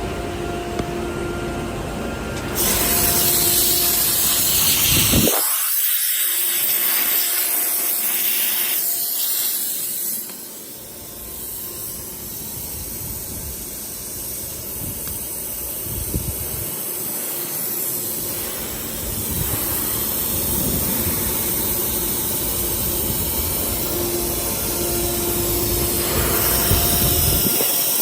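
SUDIAO M1-Pro CNC processing center running, its router spindle whine mixed with a steady hiss. It gets louder a few seconds in and dips briefly near the middle.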